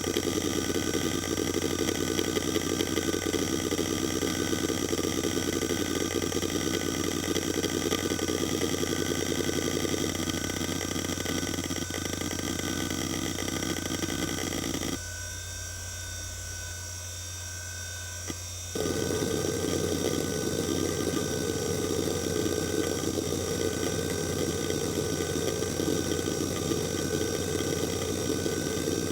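Quantum Fireball EX 3.2 GB IDE hard drive running, with a steady spindle hum and high whine under a dense chatter of head seeks. The seek chatter stops for about four seconds midway, leaving only the hum and whine, then starts again.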